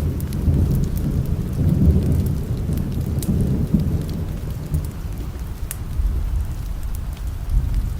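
A roll of distant thunder: a low rumble that swells over the first few seconds and fades out about halfway through, over steady rain. A few sharp ticks sound here and there.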